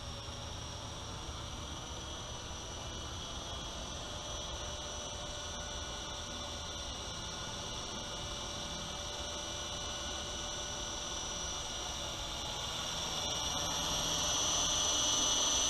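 Whine of a small coaxial RC helicopter's electric motors and rotors, holding steady and growing louder near the end.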